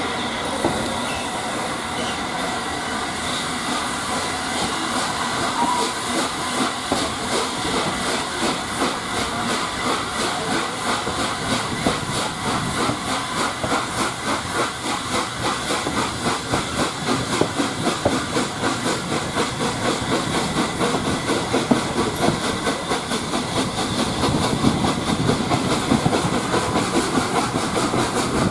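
LNER A3 Pacific steam locomotive Flying Scotsman hauling the train: a steady hiss of steam over a rhythmic pulse of exhaust beats and wheels on the rails, which grows more pronounced in the second half.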